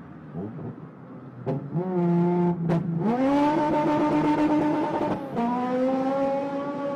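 Honda K20 four-cylinder car engine at full throttle, held at high revs. Its note breaks off sharply twice for gear changes and picks up again each time.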